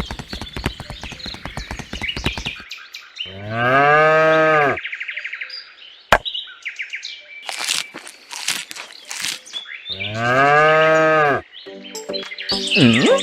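A cow mooing twice, each moo about a second and a half long and some seven seconds apart, after a run of rapid clicking in the first couple of seconds.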